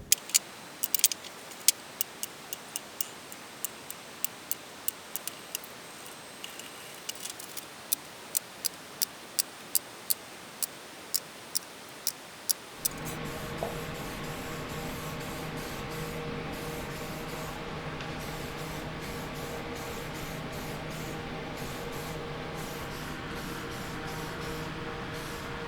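Small steel screws clicking one at a time as they are set down on a hard surface, with irregular sharp ticks about one or two a second. About halfway through, a motor starts and runs steadily with a hum.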